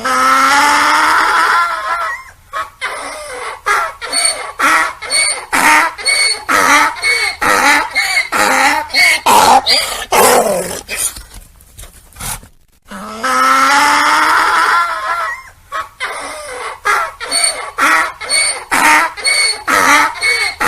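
Donkey braying: a long drawn-out pitched call, then a run of short rapid hee-haw pulses, about two a second. About two-thirds of the way through a second bray starts with the same long call and pulse run.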